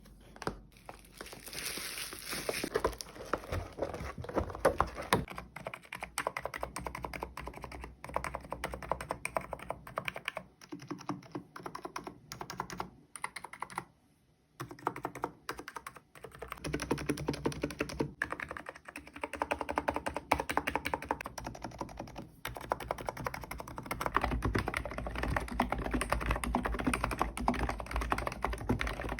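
Fast, continuous typing on a Hansung electrostatic capacitive keyboard, a dense run of key strokes that stops briefly about fourteen seconds in.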